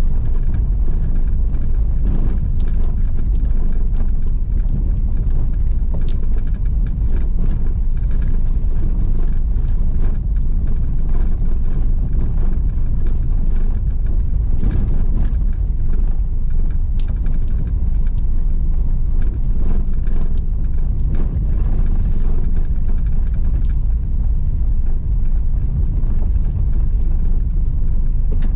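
A car driving over a rough rocky dirt road. Steady, loud low rumble of the tyres and engine, with scattered small knocks and clicks of stones and rattles.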